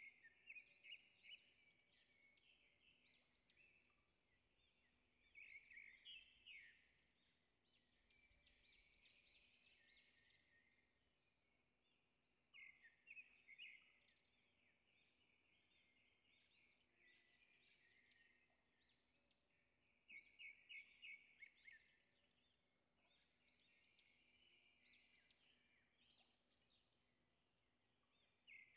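Faint bird song: short runs of quick, high repeated chirps that recur every few seconds over near silence.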